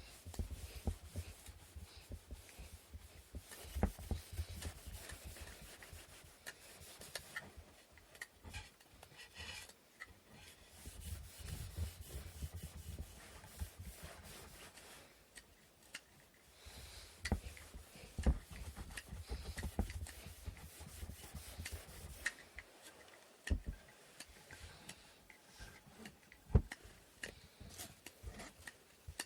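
Wooden inkle loom parts being hand-sanded: irregular stretches of rubbing strokes with short pauses, and a few sharp wooden knocks as pieces are handled or set down, the loudest near the end.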